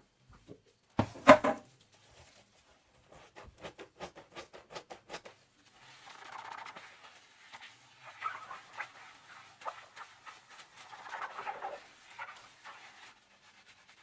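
Dishwashing at a kitchen sink: a short loud clatter of dishes about a second in, then a run of quick scrubbing strokes, then several stretches of a soapy sponge scrubbing and squishing.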